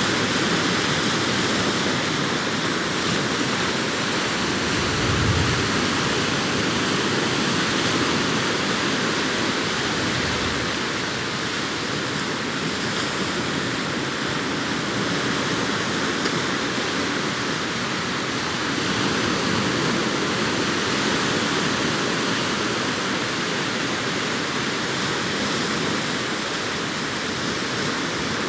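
Sea waves breaking on a beach: a continuous rush of surf that swells a little a few times.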